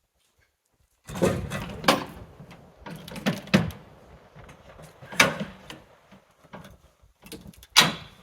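A string of irregular knocks, bangs and scrapes, with four sharper bangs spaced through it, starting suddenly after a second of silence.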